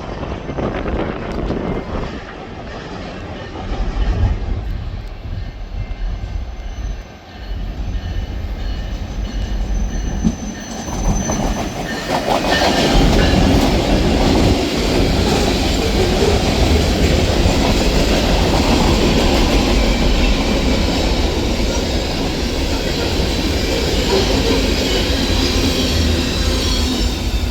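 A train rolling past on the tracks, its wheels clattering over the rail joints with a steady low rumble. The sound grows much louder about halfway through as the cars come close.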